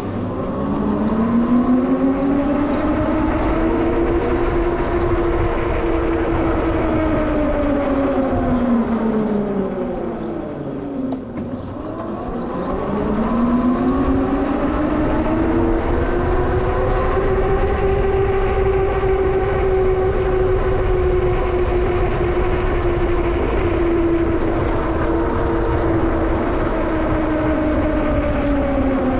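Electric bike hub motor whining under power, its pitch rising as the bike speeds up, dropping to a low point about eleven seconds in as it slows, then climbing again and holding before falling near the end, over a low rumble of wind and road noise.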